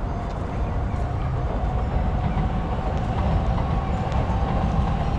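A train passing: a steady low rumble with a faint steady tone that grows stronger toward the end.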